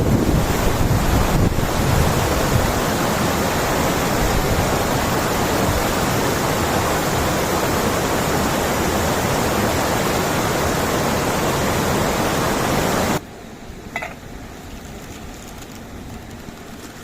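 Steady rushing of a waterfall, cutting off abruptly about 13 seconds in to a much quieter background with one short sharp sound a second later.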